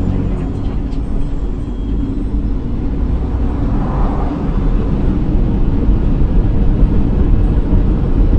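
A moving motor vehicle's steady engine and road rumble, growing gradually louder.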